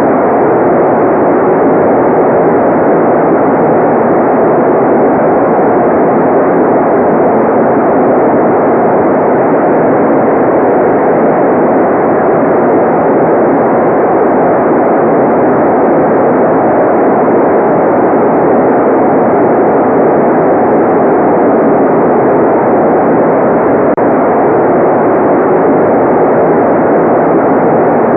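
Generated white noise: a loud, steady, even rushing hiss that never changes.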